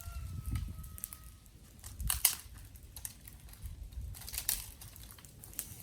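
Dry twigs and sticks cracking and snapping: a scatter of sharp cracks, loudest about two seconds in and again just past four seconds.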